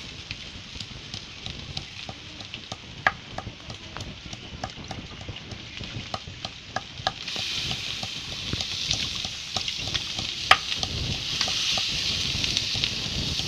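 Raw chicken pieces frying in hot oil and spices in a wok: a steady sizzle with scattered crackling pops that grows louder about seven seconds in as more chicken goes into the pan. Sharp clicks run through it, the loudest about ten seconds in.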